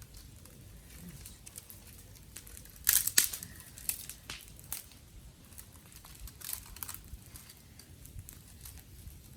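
Dry twigs and sticks crackling and snapping in irregular sharp cracks, with a loud dense cluster of snaps about three seconds in and another smaller one near seven seconds.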